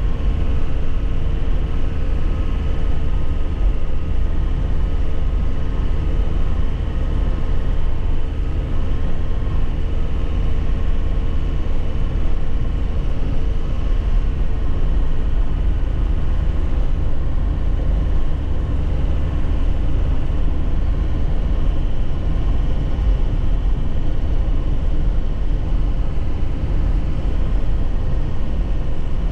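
2001 Nissan Cabstar light truck's diesel engine running steadily while driving, with road and drivetrain noise. A faint steady whine fades out about halfway through.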